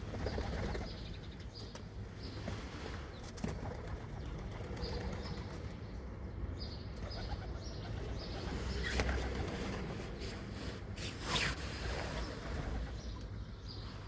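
Pigeons' wings flapping, with two loud bursts of flapping about nine and eleven seconds in, while small birds give short high chirps throughout.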